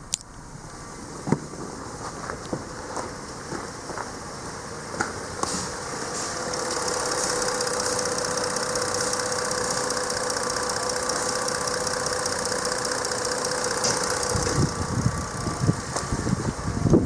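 Ford Explorer 3.5L V6 engine running at idle. Scattered clicks and ticks come through in the first few seconds, and from about six seconds in it settles into a steady hum with a high whine. Wind gusts on the microphone near the end.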